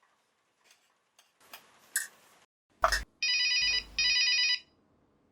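A phone ringing with a trilling, bell-like ringtone: two short rings about three seconds in, preceded by a sharp knock and a few light clicks.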